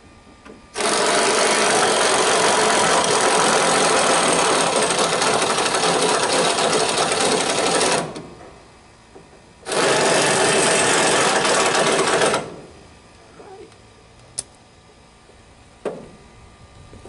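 Mac impact wrench hammering in two long runs, about seven seconds and then about three seconds, driving an impact screwdriver bit. A few sharp clicks follow.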